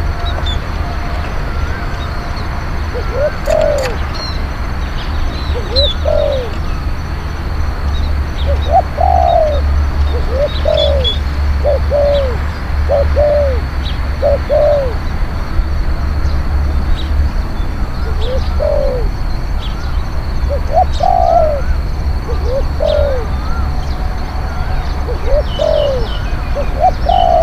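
Spotted dove cooing: a run of short, arching coos repeated at irregular intervals, some in quick pairs. Small birds chirp faintly in the background over a steady low rumble.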